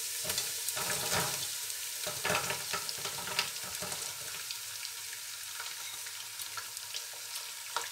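Garlic sizzling in hot oil in a pot, with a spell of rustling and sharp clicks over the first few seconds as sliced onions are tipped in, then a steady frying sizzle.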